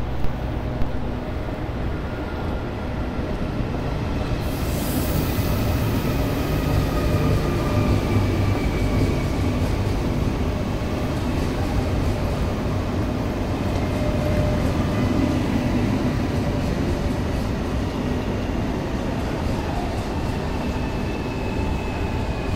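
CRH5A high-speed electric multiple unit pulling slowly into the platform as it arrives to terminate: a steady rumble of wheels on rail, with faint whining tones sliding down in pitch and a brief hiss about four seconds in.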